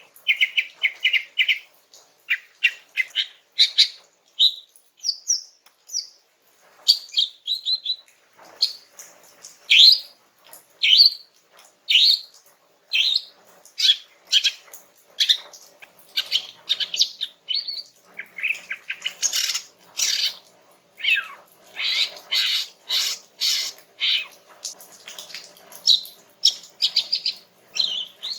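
Female cucak ijo (green leafbird) calling in a quick, continuous run of short, sharp chirps and downward-sweeping whistled notes, broken by brief rapid trills. It is a female's call to draw a male.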